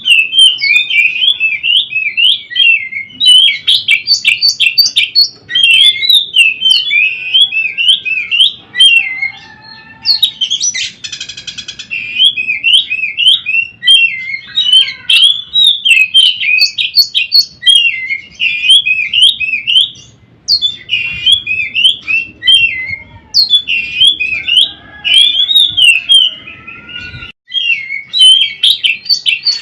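Oriental magpie-robin (kacer) singing a fast, varied song of whistles and chattering phrases, broken by short pauses, with a harsh buzzy note about ten seconds in.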